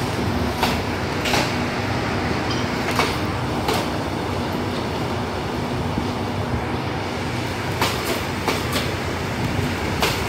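Passenger train coaches rolling slowly past, their wheels clacking over rail joints in irregular single and paired clicks over a steady rumble and faint hum.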